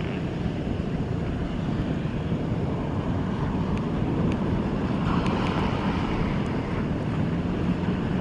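Wind buffeting the microphone: a steady low rumble that swells a little about five seconds in, with a couple of faint clicks near the middle.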